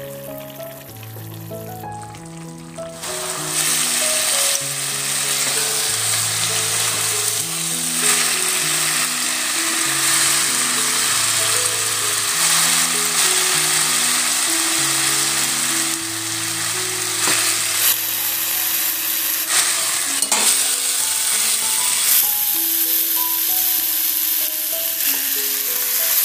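Shredded chicken sizzling in a wok as its coconut-milk broth cooks down, stirred with a silicone spatula. The sizzle grows loud about three seconds in and stays steady, with a few brief dips. A soft background melody plays under it.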